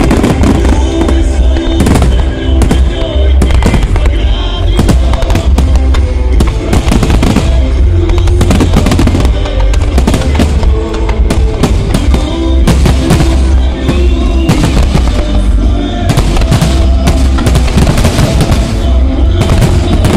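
Aerial fireworks shells bursting in a dense, continuous string of bangs and booms, over loud music.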